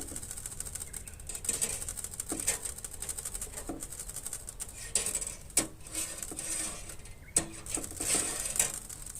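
Wood fire crackling in a homemade rice-cracker-tin fire pit: a dense, irregular crackle with a few sharper pops.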